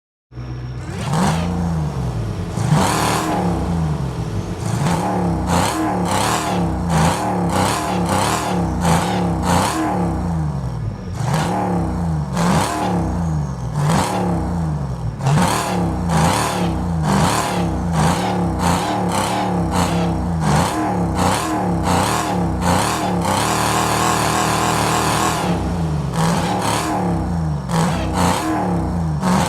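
Supercharged Dodge V8 engine revved over and over, its pitch and supercharger whine rising and falling with each blip. There is a longer held rev about 23 to 25 seconds in.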